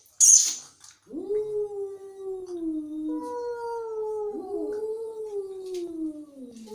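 Angry cats yowling: long, drawn-out, wavering calls that slowly fall in pitch, starting about a second in, with new calls overlapping the ones still going around 3 and 4.5 seconds. A short sharp burst of noise comes at the very start.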